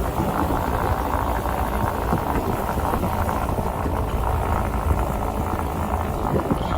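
Steady road and engine noise inside a moving car's cabin: a low rumble with an even hiss above it.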